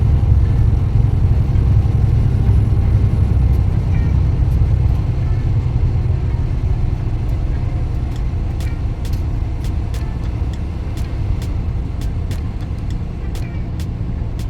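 Inside a moving semi-truck cab at road speed: steady low rumble of the diesel engine and road noise. Faint light ticks come in at about two a second during the second half.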